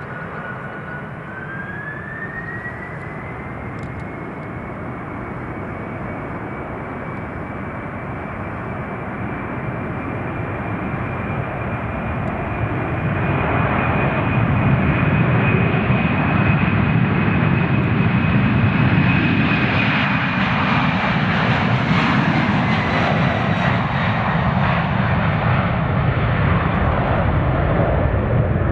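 Jet airliner's engines spooling up to takeoff power with a rising whine, then the takeoff roll as a roar that builds over about a dozen seconds and stays loud. The whine drops in pitch after about twenty seconds.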